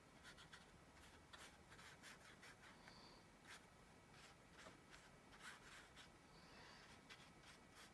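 Faint paintbrush strokes and dabs on paper: scattered soft scratches and light taps.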